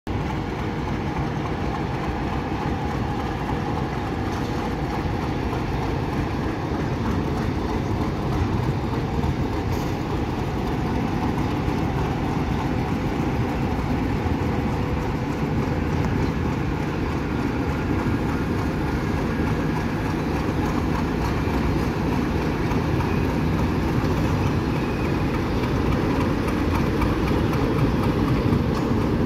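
Steady, even rumble of a moving train.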